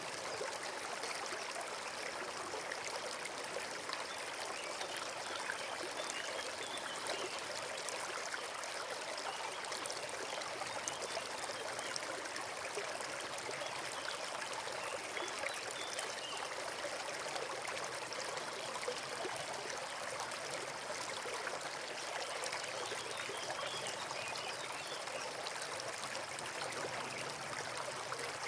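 Forest brook running steadily, a continuous babble and trickle of water.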